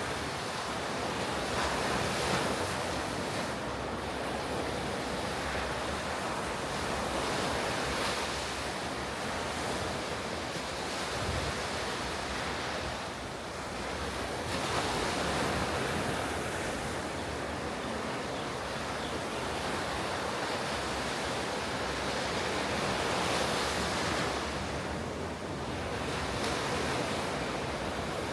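Ocean surf breaking on a beach, a continuous wash that swells and recedes every several seconds as waves come in, with some wind on the microphone.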